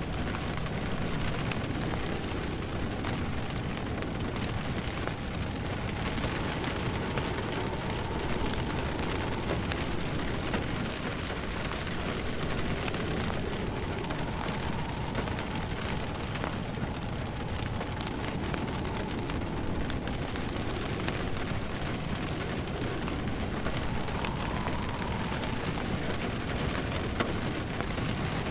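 Steady rain pattering on a surface, mixed with the crackle of a fire burning in a fireplace.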